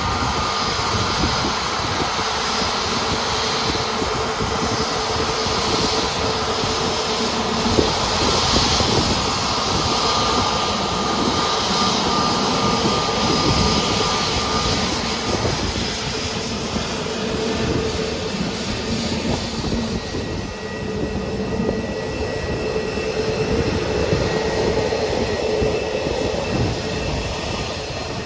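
Jet airliner engines running, a loud, steady noise with held whining tones that fade and return.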